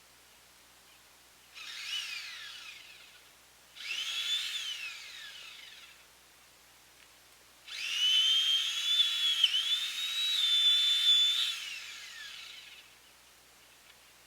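Chainsaw engine revved twice briefly, each rev falling away, then held at high speed for about five seconds with one brief dip in pitch before winding down.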